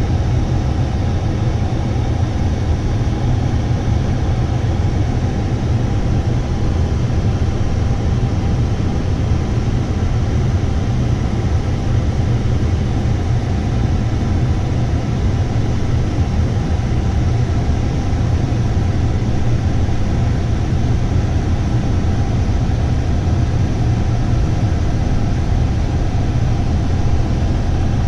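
A vehicle under way, its engine running at an unchanging speed under a constant rushing noise.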